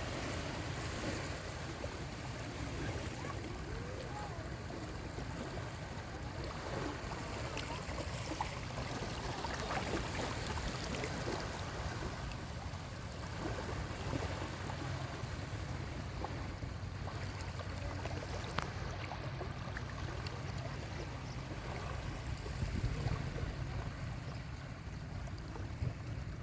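Sea waves washing onto a beach: a steady wash of surf with a low rumble under it. Faint distant voices of people playing in the water come through now and then.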